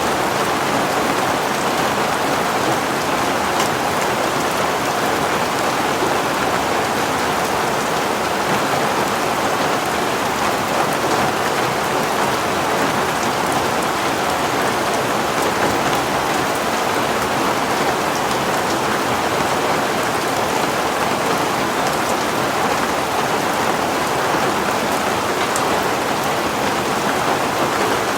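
Heavy rain falling steadily, a constant even hiss of downpour with scattered drop ticks.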